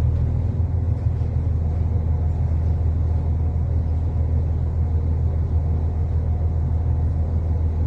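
Steady low rumble inside an Irish Rail diesel multiple-unit railcar, the engine droning evenly with no change.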